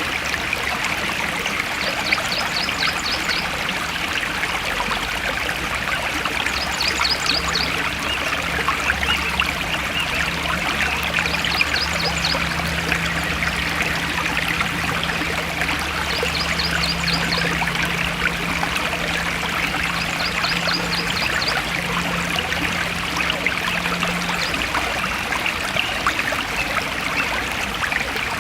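Forest stream flowing in a steady rush of water. A short, high, rapid trill recurs about every four to five seconds, and a faint low hum comes in about a quarter of the way through and fades out near the end.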